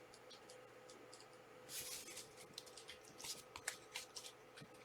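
Faint handling of trading cards: a short soft rustle about two seconds in, then scattered light clicks and taps, over a low steady hum.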